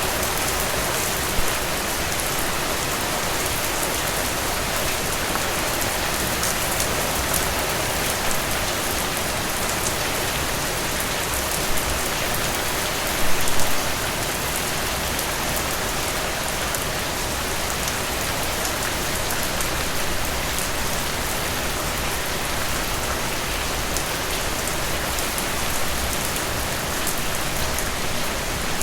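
Heavy rain falling steadily as a dense hiss of drops, with a few louder single drop hits now and then, the loudest a cluster about 13 seconds in.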